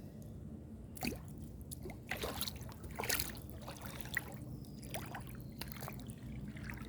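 Swimming-pool water splashing and sloshing in irregular short splashes over a low steady hum.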